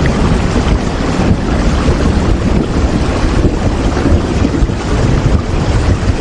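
Steady heavy rain, a dense unbroken hiss with a strong low rumble under it.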